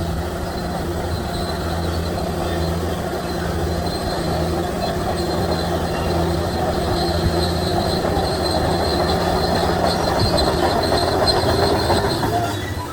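Shantui DH17C3 crawler bulldozer's diesel engine running steadily, with its steel tracks rattling and a faint high squeal from the track running gear.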